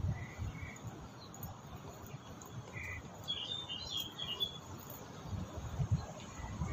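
Small birds chirping: scattered short calls, with a quick cluster of higher chirps about three seconds in, over a low, uneven rumble.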